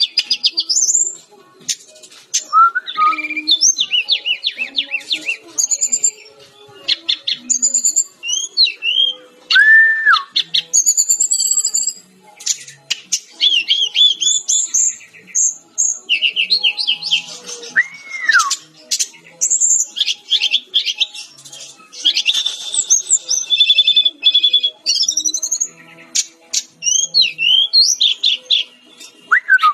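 Fulvous-chested jungle flycatcher (Cyornis olivacea) singing a rapid, varied song of high chirps, trills and sliding whistles, in short phrases with brief pauses. A couple of slower, lower whistles that rise and then fall come in the middle.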